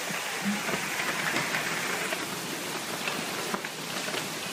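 Heavy storm downpour, an even hiss of driving rain with a few short taps scattered through it.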